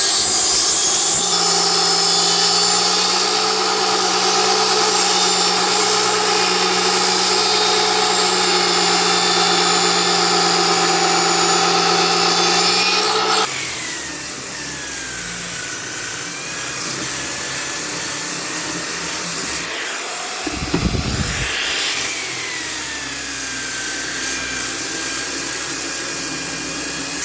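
An electric power tool runs steadily on wood, a constant motor hum with a high hiss, and cuts off suddenly about thirteen seconds in. Quieter, mixed sounds follow, with a short low thump a little after twenty seconds.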